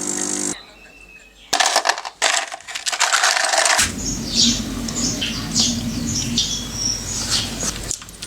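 Small birds chirping, with short falling calls repeated over a low steady rumble for the second half. Before them a steady machine hum stops abruptly, and a couple of seconds of clattering, rustling noise follow.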